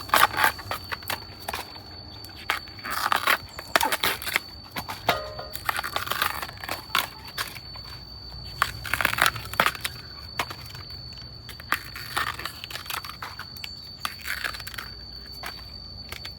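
Dry plant material crunching, snapping and tearing in irregular bursts, over a steady high whine.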